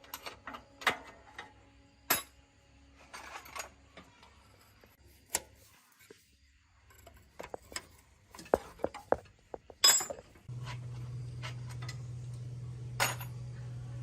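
Metal tools and parts clinking and knocking as they are handled, in scattered sharp strikes. About ten seconds in, a steady low machine hum starts suddenly and keeps going.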